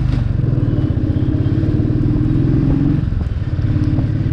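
Royal Enfield 350's single-cylinder engine running steadily as the motorcycle cruises along the road.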